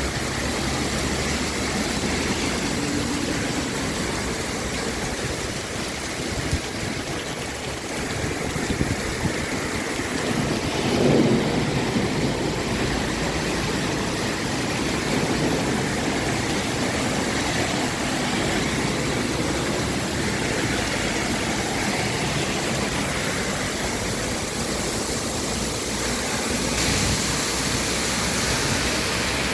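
Heavy rain pouring down in a thunderstorm, a steady hiss. There are a few sharp knocks about six and nine seconds in and a brief louder surge about eleven seconds in.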